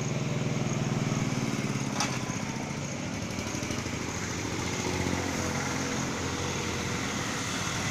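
A small engine running steadily, with a single sharp click about two seconds in.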